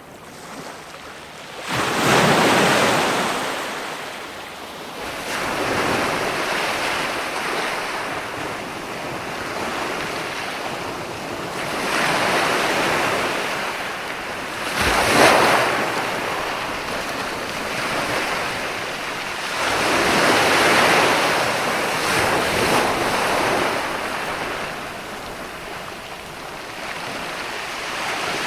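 Ocean waves breaking and washing on a shore, the surf swelling and ebbing every few seconds, with one sharper, louder crash about halfway through.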